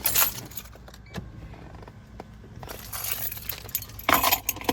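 Rustling and clattering of objects being handled inside a car, in a few sudden bursts, the loudest near the end. A low steady hum of the idling car and its air conditioning runs underneath.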